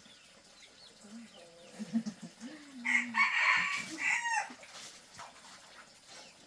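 A rooster crowing once, about three seconds in, for about a second and a half, ending on a falling note.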